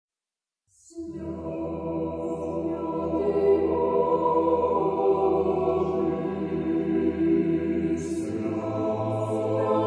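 A choir chanting in sustained chords over a steady low drone, in the manner of Russian Orthodox church singing. It begins about a second in after a brief silence, and the chord changes shortly before the end.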